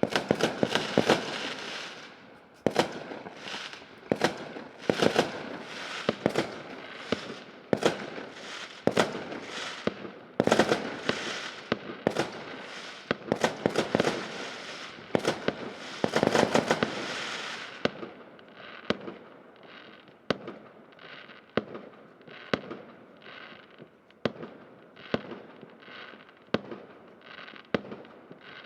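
Fireworks going off in a rapid string of sharp bangs. The bangs come thick and loud for roughly the first eighteen seconds, then thin out and grow fainter.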